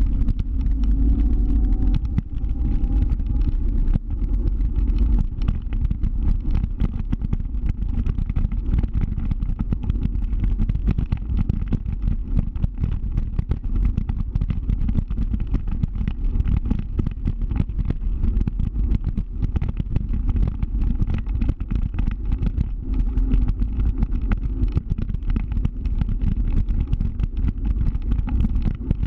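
Scooter on the move: a steady low rumble of riding noise with wind crackling on the microphone, and a faint rising whine in the first few seconds.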